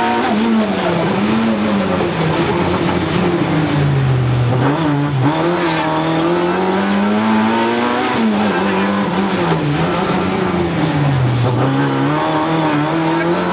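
Rally car engine heard from inside the cabin at stage pace. The revs keep rising and falling: they drop sharply at the start, sink low about four seconds in and again near the end, and climb back up each time as the car slows for corners and accelerates out of them.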